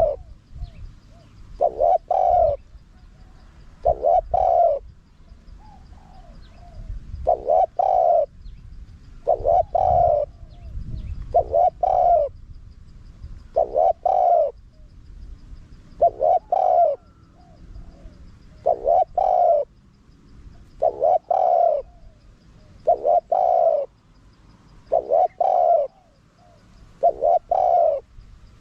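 Spotted dove cooing: a short phrase of coo notes repeated about every two seconds.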